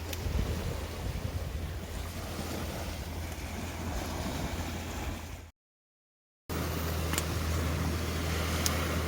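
Wood campfire burning with a steady rush under wind buffeting the microphone, and a couple of sharp crackles near the end. The sound cuts out completely for about a second midway.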